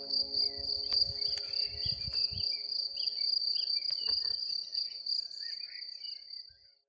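Crickets trilling steadily in one unbroken high tone, with scattered short chirps above it, fading out near the end.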